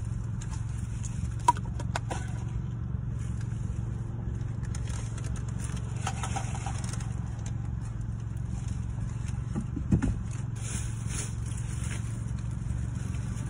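Car engine idling, a steady low hum heard inside the cabin, with a few brief sharp clicks, the loudest about ten seconds in.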